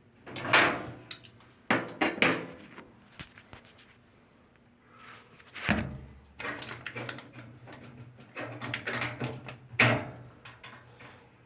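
A string of knocks, clunks and rattles of hard parts being handled, with a loud knock about halfway through and a low hum underneath in the second half.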